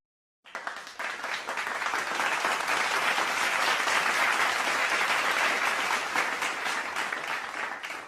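Applause from a crowd, a dense patter of many hands clapping that begins about half a second in, swells and then slowly dies away near the end.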